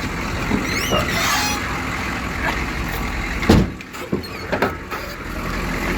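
1989 Chevrolet truck's 6.2-litre diesel V8 running with a steady low rumble. About three and a half seconds in a short, loud sound falling in pitch stands out, and the overall sound is quieter after it.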